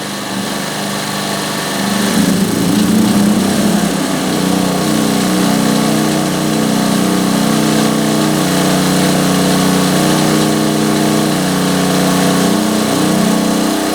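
Two Champion 2000-watt inverter generators running in parallel in econo mode rev up about two seconds in as a microwave's load comes on, then run steadily at the higher speed.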